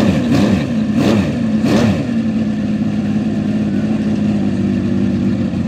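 The Z2600 V12 engine is blipped through about three quick revs in the first two seconds, then settles into a steady idle.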